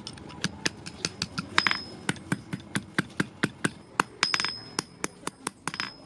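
A hand hammer striking iron rod on an anvil in quick, steady blows, about four a second, with a high metallic ring three times.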